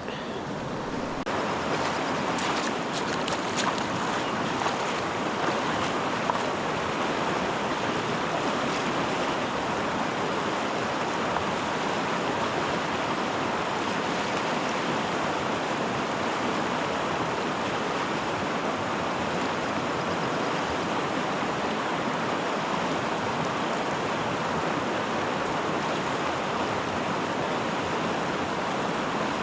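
Stream water rushing steadily across a ford, with a few faint clicks in the first few seconds.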